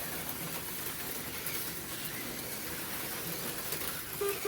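HO-scale slot cars running laps on the track, a steady noise from their small motors and wheels on the plastic track.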